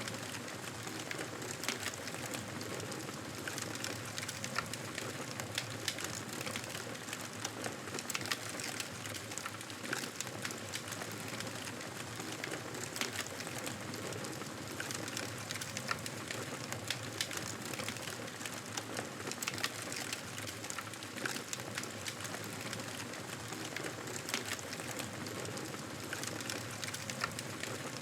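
Wood fire burning in a fireplace: a steady hiss with frequent small, irregular crackles and pops.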